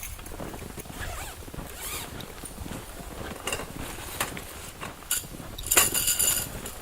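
Footsteps crunching and squeaking on hard, very cold snow, irregular, with the loudest crunches about six seconds in.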